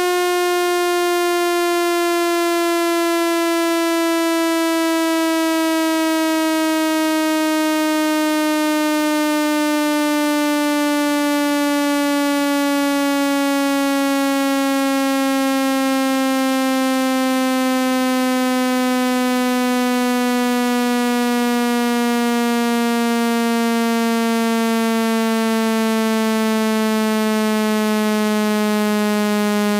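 Synthetic buzzy test tone played to eject water from a phone speaker, held at a steady loudness while its pitch glides slowly downward.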